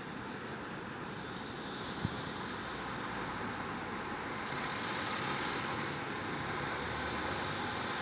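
Steady hum of distant city traffic, swelling slightly in the second half, with a single sharp click about two seconds in.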